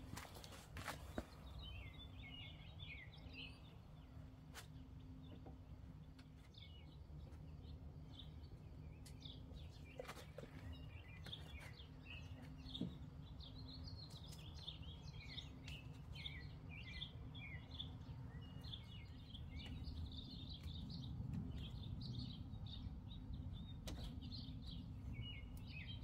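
Birds chirping faintly and repeatedly over a low steady hum, with a few sharp clicks.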